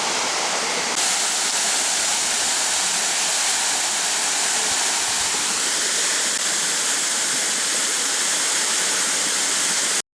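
Waterfall: a steady rush of falling water that stops suddenly near the end.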